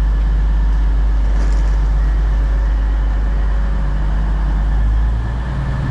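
Diesel train engine running steadily, a deep rumble with steady humming tones; the rumble eases and the note shifts about five seconds in.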